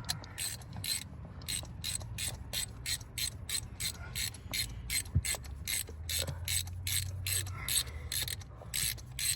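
Steady, evenly spaced mechanical clicking, about three clicks a second, over a faint low hum.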